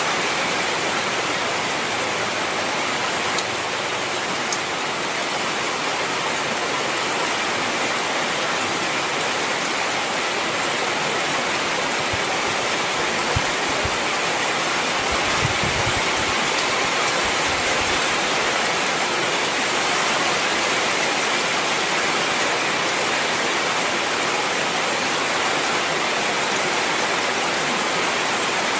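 Heavy rain falling in a steady downpour, with a few faint low thumps about halfway through.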